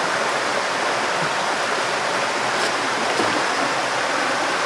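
River water rushing steadily, an even hiss with no let-up.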